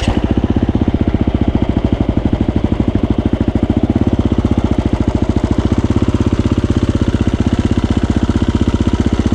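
KTM dirt bike engine running at low, steady revs, with a rapid even pulse and no revving.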